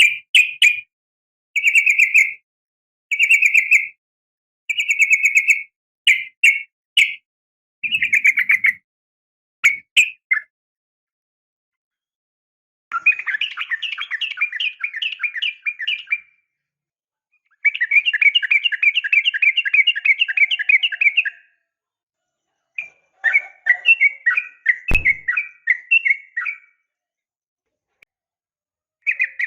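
Yellow-vented bulbul (trucukan) calling: a string of short, rapidly pulsed chattering phrases, then three longer rapid chattering trills with silent gaps between them. A single sharp click sounds near the end.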